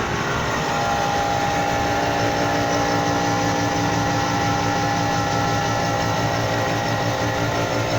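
Milling machine cutting hardened steel on a 1 mm-deep pass: a steady machine sound with several fixed whining tones over a low hum.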